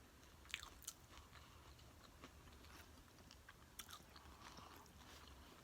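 Faint chewing close to the microphone, with a few crisp crunches about half a second in and again near four seconds: a person eating nachos.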